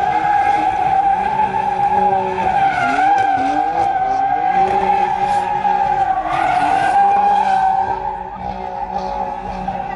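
Car tyres squealing without a break as they spin on the pavement, a steady high screech, with the engine revving up and down underneath.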